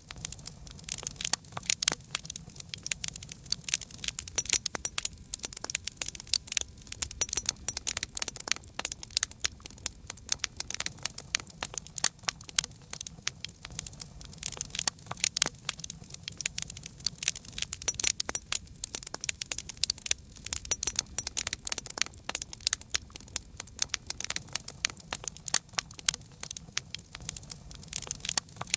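Campfire burning with dense, irregular crackles and pops over a soft low rumble.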